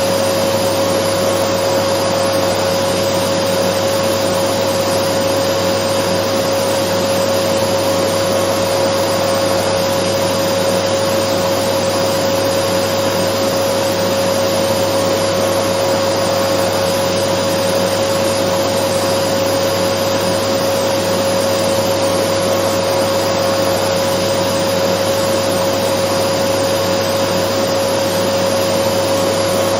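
Dyson vacuum cleaner running steadily: a constant rush of air with a steady whining tone, unchanging throughout, used as white noise.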